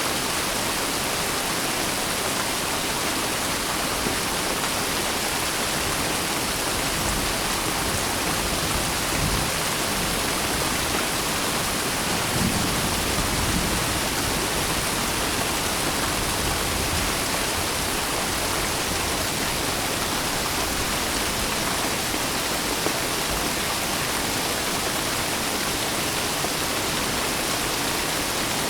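Steady heavy rain, an even rushing hiss of water with no let-up, and a slight low rumble swelling briefly about halfway through.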